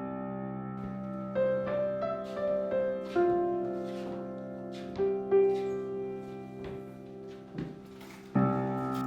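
Slow, soft piano music: a held chord with single melody notes played one at a time above it, and a new chord struck near the end.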